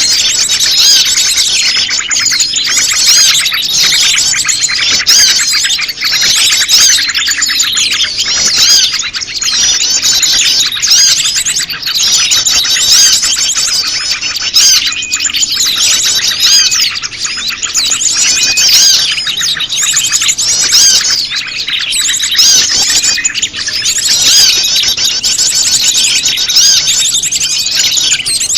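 Loud, dense, unbroken chorus of many small birds chirping and trilling over one another: a bird-lure recording of prenjak lumut calls mixed with a noisy flock of small birds.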